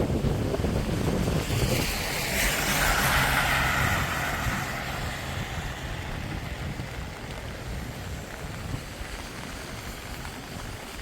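A car passing on a wet road: tyre hiss swells about two seconds in and then fades away, over a low rumble of wind on the microphone.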